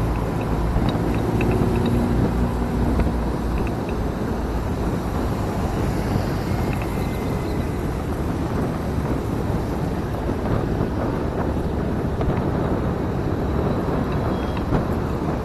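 Motorcycle riding along the road: steady engine and road noise with air rushing past the rider-mounted microphone.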